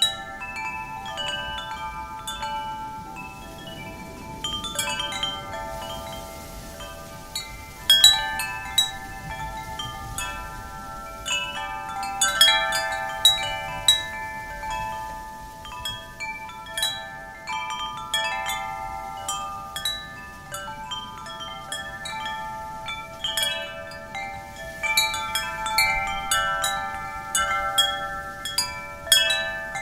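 Wind chimes ringing in the wind: many metal tones struck irregularly and often several at once, each ringing on, with a faint wind noise underneath.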